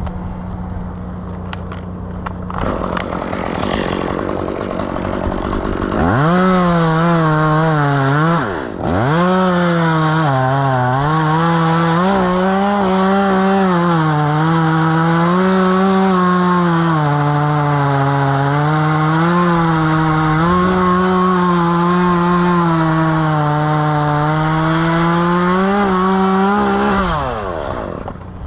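Chainsaw brought up to full throttle about six seconds in. It dips briefly and picks up again, then runs at high revs with its pitch wavering up and down for about twenty seconds before dropping back near the end.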